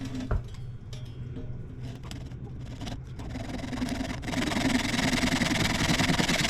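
Small electric power tool running as a wooden dowel is shaped on it, with a steady hum, then a much louder, continuous hiss of wood being cut away from about four seconds in.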